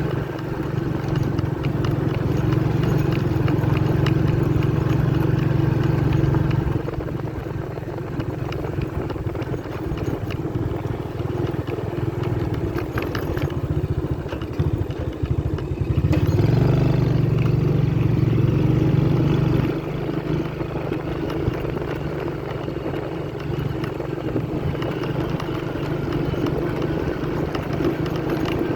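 Motorcycle engine running as the bike rides over a rough off-road track, getting louder twice for a few seconds as the throttle is opened.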